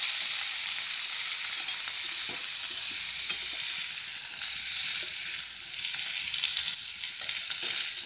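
Par-boiled potato cubes sizzling as they fry in hot mustard oil in a wok, the sizzle easing a little. From about two seconds in, a spatula scrapes and clicks against the pan as the potatoes are stirred.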